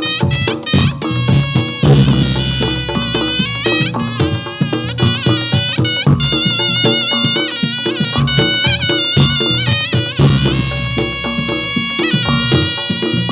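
Reog Ponorogo ensemble music accompanying a jathilan dance: a reedy slompret shawm plays a wavering melody over steady drum and percussion strokes.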